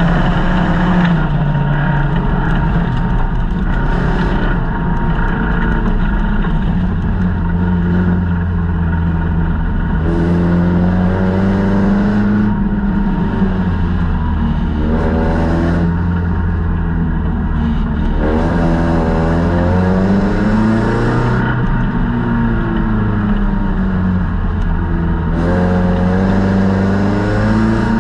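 Folkrace car's engine revving hard under racing throttle, heard from inside the stripped cabin. Its pitch climbs and drops back again and again as the driver accelerates, shifts and lifts off.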